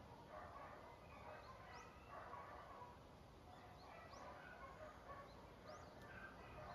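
Faint outdoor quiet with a small bird's short upward-sweeping chirps, one every second or two, over a soft background hiss.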